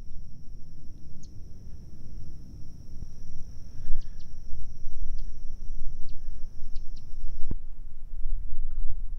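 Outdoor marsh ambience: a low rumble of wind on the microphone under a steady high-pitched insect drone, with a few short high chirps and a single sharp knock about seven and a half seconds in.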